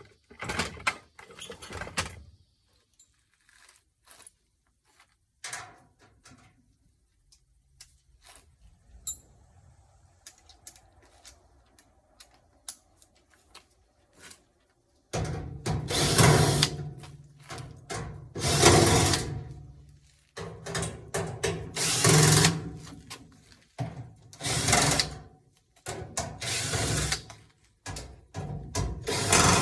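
Power drill running in about six short bursts of a second or two each, with light clicks and knocks of handling in the first half before the bursts start.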